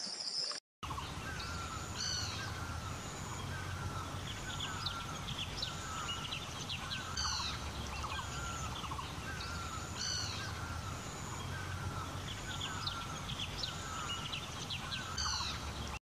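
Several birds calling over a steady low rumble. One downward-sweeping call repeats every few seconds over a stream of shorter chirps, after a brief dropout just under a second in.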